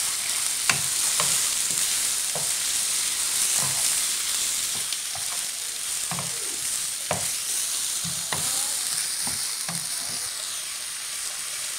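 Chopped onions, tomatoes and green chillies sizzling in hot oil in a wok while a wooden spatula stirs them, knocking irregularly against the pan about every half second.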